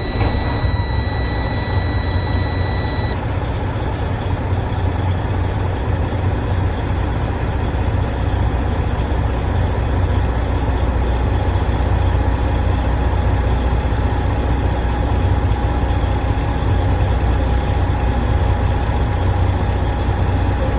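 Semi truck's diesel engine idling steadily, with a steady high-pitched beep for the first three seconds.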